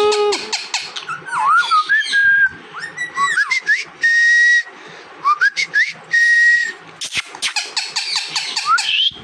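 Pet parrot whistling and chattering: many short whistles that rise and fall, two longer held whistles near the middle, and quick clicking bursts.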